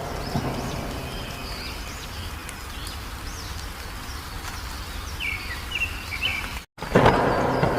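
Wild songbirds chirping and calling in short, high notes over a steady rushing background of outdoor noise. The sound cuts out for an instant a little before the end, then comes back louder.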